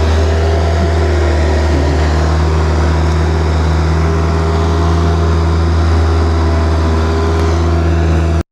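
Vehicle engine running steadily with an even low drone, cutting off abruptly near the end.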